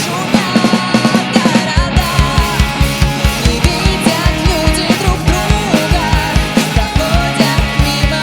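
Rock band playing an instrumental passage, with a drum kit keeping a steady beat under pitched instrument lines.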